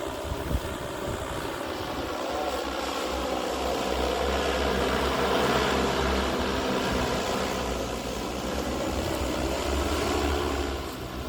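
Agricultural spraying drone's rotors humming as it flies past, growing louder toward the middle and easing off again.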